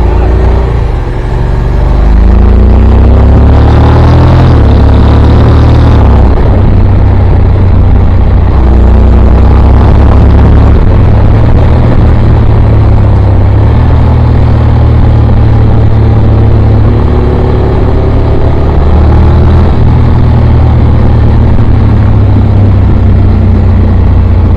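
Motorcycle engine accelerating hard, its pitch rising over the first few seconds, then held at high speed under a loud, steady low rumble.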